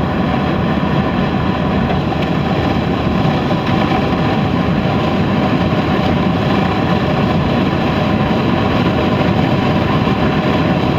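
Stock Buick 231 V6 of a 1981 Regal at wide-open throttle, accelerating from about 50 to 70 mph. The engine runs under full load with road and wind noise, a steady, loud drone that builds only slightly.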